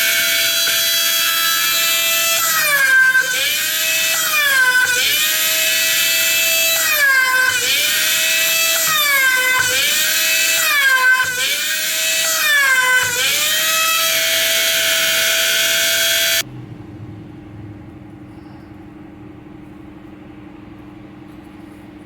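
Small motor of a homemade mini bench drill whining at high speed, its pitch dipping and recovering several times as the bit loads up drilling holes in a circuit board. It cuts off suddenly, leaving a faint steady hum.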